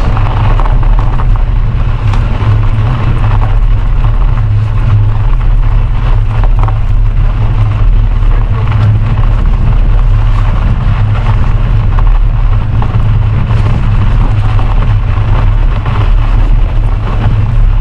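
Steady low rumble of wind buffeting the microphone while riding a bicycle, with tyre and bike noise beneath it and a few faint ticks.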